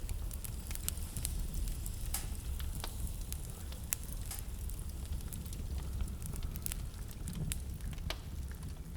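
Wood fire crackling in a fireplace: scattered sharp pops and snaps, a few louder ones about two and four seconds in, over a steady low rumble.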